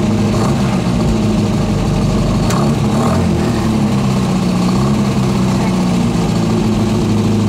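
Mini Cooper S rally car's engine running at steady, slightly wavering revs while the car stands still, heard from inside the cabin. A single sharp click comes about two and a half seconds in.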